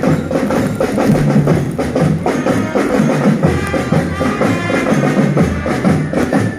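A marching drum band playing, with bass drums and other marching drums beating a steady rhythm and pitched melody instruments sounding over them.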